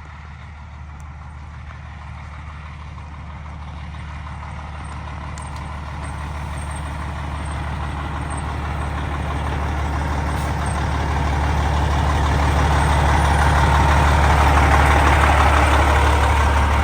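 A vehicle engine running at a steady speed with a constant low hum, growing gradually louder until near the end.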